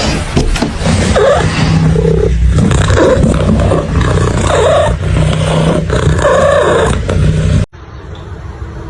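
An animal's loud, repeated pitched calls over a low steady hum, breaking off abruptly about a second before the end.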